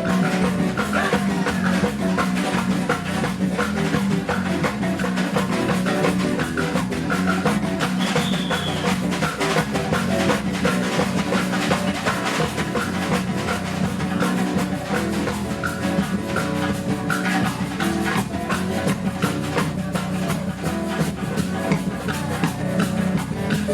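Live band music with a steady beat: a band playing acoustic guitar, bass and a large percussion section.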